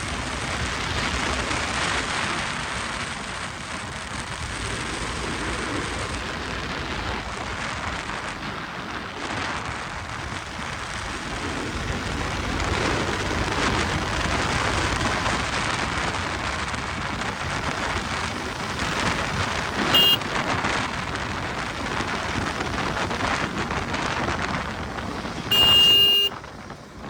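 Steady wind and road rush from riding a KTM RC 200 motorcycle at highway speed. A short horn beep about twenty seconds in, and a louder, longer horn blast near the end.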